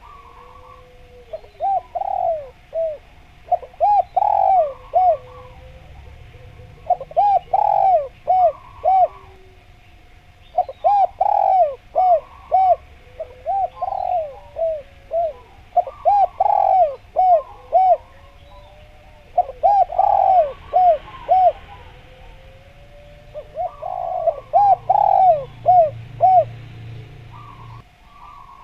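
Spotted dove (derkuku, tekukur) cooing in repeated phrases. Each phrase is a quick run of short, arched coos, and about eight phrases come every few seconds.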